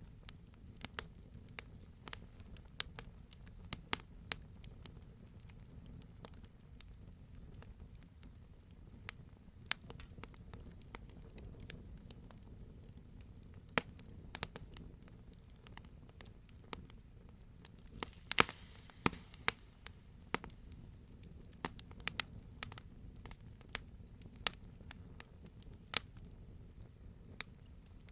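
Campfire crackling: irregular sharp pops and snaps from burning logs over a low, steady rumble. A quick cluster of louder pops comes about two-thirds of the way through.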